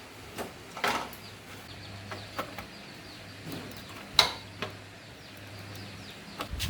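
Scattered light clicks and knocks, with one sharper knock about four seconds in, over a steady low hum.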